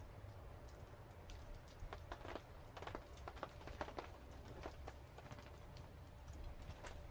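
Wood fire crackling: faint, irregular pops and snaps over a low steady rumble.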